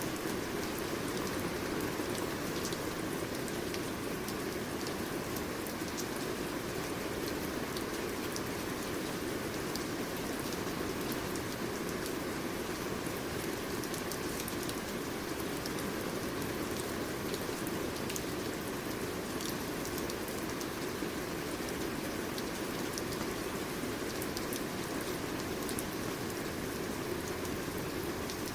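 Steady rain falling, with a full, even hiss and scattered individual drops ticking.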